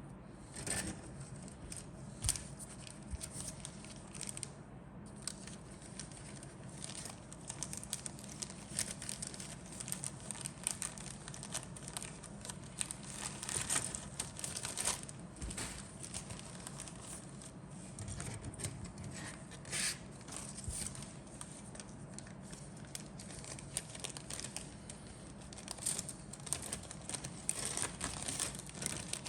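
Plastic packaging, such as the bags holding model kit sprues, crinkling and rustling as it is handled, in irregular bursts throughout.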